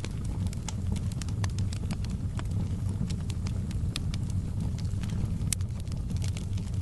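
Wood fire crackling in a fireplace: irregular sharp pops and snaps over a steady low rumble of burning, with a louder pop about five and a half seconds in.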